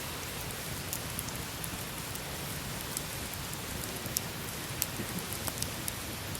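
Wood campfire burning: a steady hiss with irregular sharp crackles and pops, several a second.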